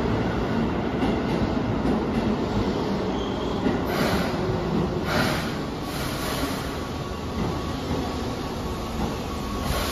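Keihan 8000 series electric train running into an underground station platform and slowing, with a steady rumble of wheels on rail. From about four seconds in there are several short spells of higher-pitched hissing and squealing noise from the wheels and brakes.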